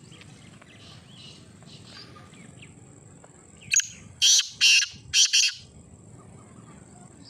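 Black francolin calling: a loud burst of four short harsh notes in quick succession, about halfway through, over faint background birdsong.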